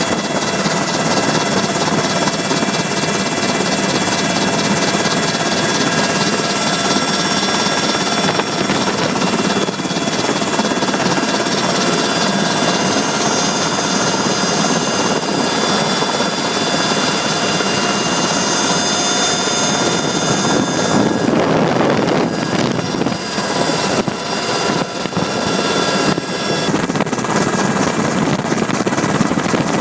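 Helicopter in flight, heard from on board: steady engine and rotor noise with a constant whine.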